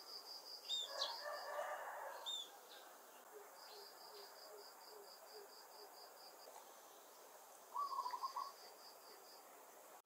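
Birds calling: three runs of rapid, evenly repeated high notes, with a few short downward chirps and two louder warbled calls, about a second in and near the end.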